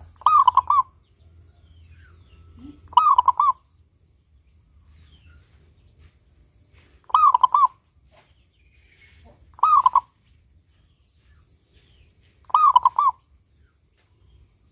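Local-strain zebra dove (perkutut) singing: five short cooing phrases, each of two or three quick rolling notes, spaced a few seconds apart.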